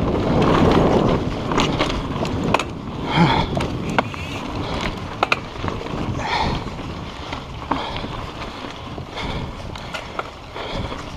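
Mountain bike rolling along a dirt trail: a rush of wind on the microphone and tyre noise, louder for the first couple of seconds and then easing, with scattered sharp clicks and rattles from the bike over bumps.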